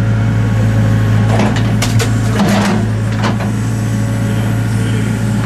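An engine running steadily, with several wooden knocks and clatters in the middle, typical of logs being handled for a bonfire.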